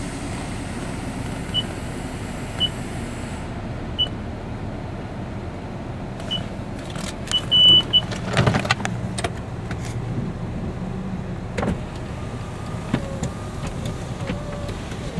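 Car running with steady engine and road rumble heard from inside the cabin. A few short high beeps come in the first eight seconds, and a loud clunk comes about eight and a half seconds in.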